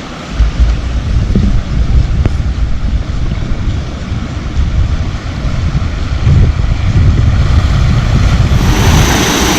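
Wind buffeting the microphone over the sound of sea waves, in heavy low gusts. Near the end a brighter sound with a steady high whine comes in.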